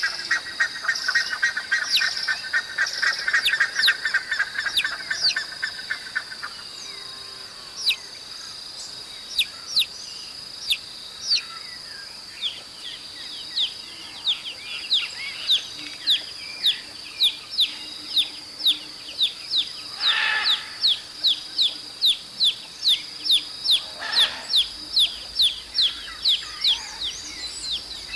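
Baby chicks peeping: many short, high-pitched, falling chirps, several a second, with a steady high background tone. A rapid buzzy trill runs through the first six seconds or so.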